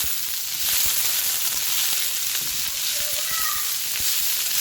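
Pechay (bok choy) being sautéed in a hot frying pan: a steady sizzle, with a few soft knocks from the pan.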